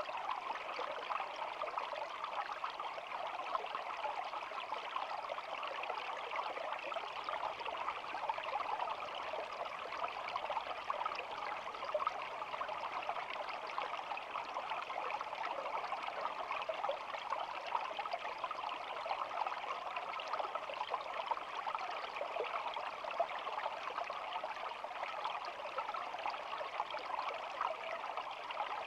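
A small shallow stream babbling steadily, an even, unbroken rush of flowing water with fine flickering detail.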